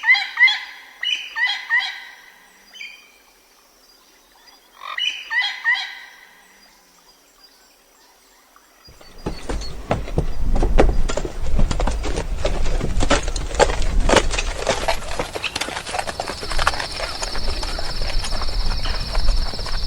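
Bird calls in two loud bursts of repeated, ringing notes. From about nine seconds a dense crackling noise takes over, and a steady high buzz joins it near sixteen seconds.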